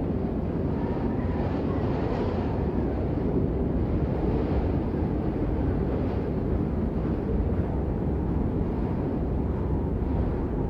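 Steady rain, an even, dense rush of noise weighted toward the low end, with no separate drops or gusts standing out.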